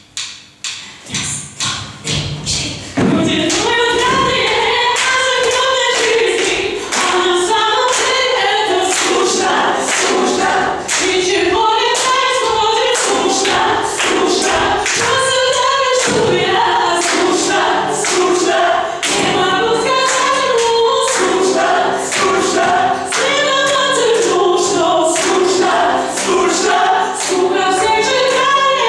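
A group of voices singing together over a steady beat of sharp knocks. The knocks come alone at first, and the singing begins about three seconds in.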